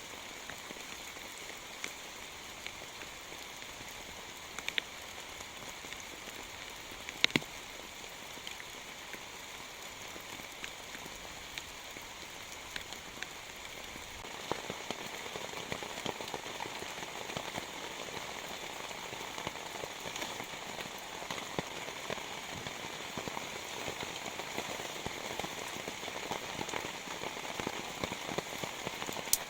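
Heavy rain falling, with individual drops striking close by as sharp clicks. The drop hits grow denser and louder about halfway through.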